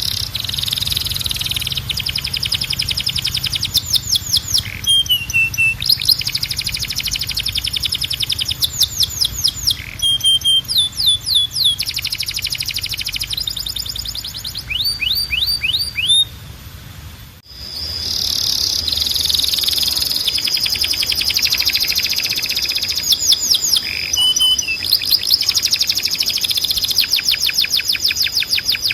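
Timbrado canary singing: fast trills of rapidly repeated notes, broken by a brief pause near the middle, followed by a long held tone with more trills running over it.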